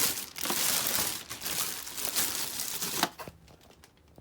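Packaging crinkling and rustling as it is handled, with sharp crackles, stopping about three seconds in; a few faint clicks follow.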